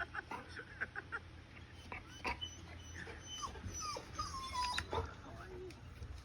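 Golden retriever whining in a series of short, high-pitched whimpers.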